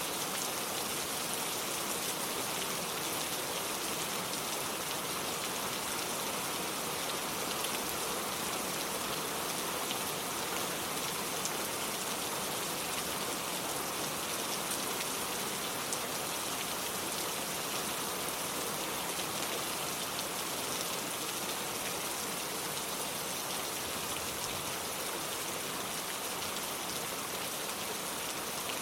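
Steady rain falling on a cobblestone street, an even hiss that never lets up.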